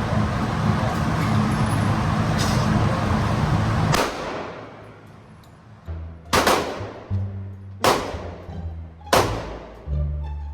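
Four sharp, loud AR-15 rifle shots, each with a short ringing tail, the first about four seconds in and the others about one and a half to two and a half seconds apart. Music with a deep, stepping bass line runs under them, and a steady rushing noise fills the first four seconds, ending at the first shot.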